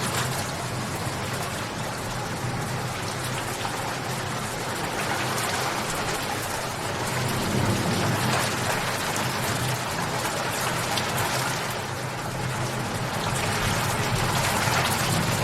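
Steady heavy rain falling on a surface, a dense hiss full of fine drop patter, swelling slightly now and then.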